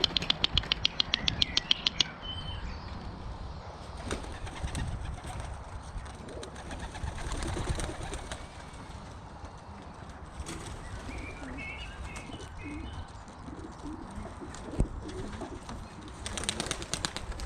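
Young racing pigeons' wings flapping in rapid, even beats as birds take off, at the start and again near the end, with pigeons cooing in between.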